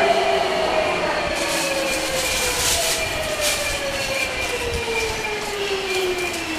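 Hankyu 8300 series electric train heard from inside the car as it slows: the traction motor whine falls steadily in pitch under braking, over the rumble and hiss of the wheels on the rails.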